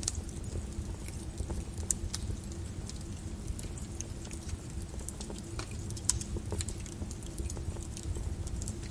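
Wood fire crackling in a fireplace, irregular sharp crackles over a steady low rumble, a couple of louder ones about two and six seconds in, mixed with steady rain pattering.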